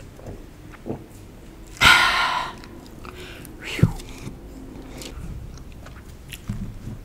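Close-miked eating mouth sounds: soft chewing. About two seconds in there is a loud noisy burst, and a sharper click comes just before four seconds.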